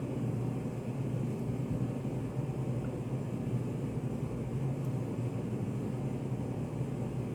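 Steady low drone of study-cafe room ambience, even throughout with no distinct events.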